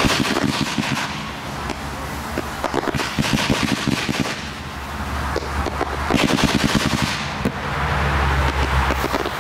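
Fireworks going off in rapid volleys of crackling reports, one volley after another, with low booming and rumble between the bursts.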